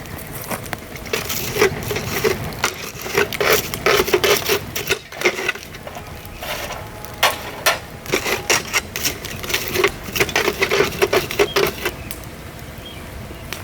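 Dry bamboo burning in a fire, crackling with flurries of rapid sharp pops, easing off near the end.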